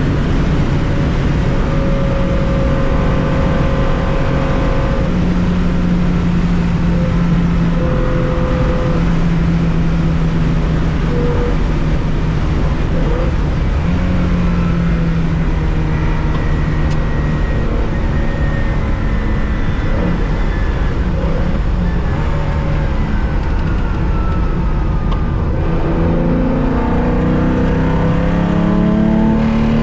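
1965 Porsche 911 2.0's air-cooled flat-six running hard under racing load, heard from inside the cockpit. The engine note holds level for long stretches with a few steps in pitch, then climbs near the end as the car accelerates.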